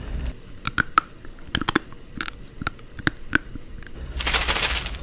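Dry instant ramen noodle block (non-fried) cracking and clicking as it is handled, a dozen or so sharp snaps. A short, loud rustling burst follows about four seconds in.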